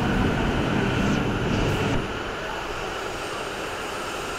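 E5 series Shinkansen train rolling slowly past along the platform as it pulls in, a steady low rumble and whir. About halfway through the rumble drops abruptly and a quieter steady whir carries on.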